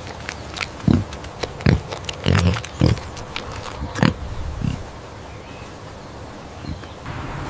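A pig grunting: about six short, low grunts in the first five seconds, then quieter.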